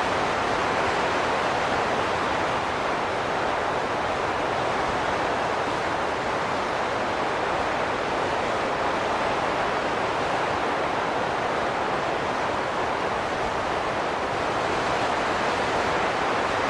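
Wind blowing steadily, an even noise with no whistling tone, swelling slightly near the end.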